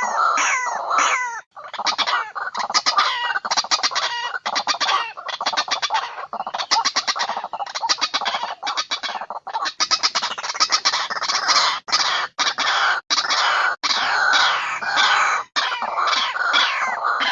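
White-breasted waterhen calls from a recording played as a trapping lure: rapid runs of repeated calls that overlap, broken by a few short gaps.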